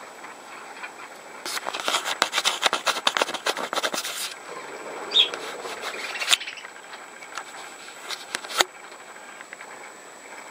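Budgerigars working at large seeds: a dense run of scratchy clicks and scrapes for a couple of seconds, then a short high squeak and a few single clicks.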